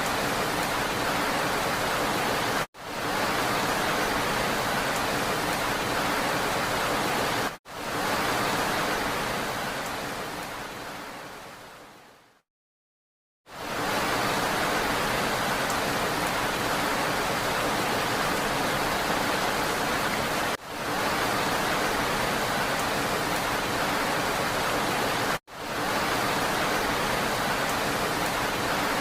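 Steady hiss of rain, an even wash of noise. It cuts out briefly several times, and about eight seconds in it fades away to a second of silence before fading back in, as the looped recording is joined.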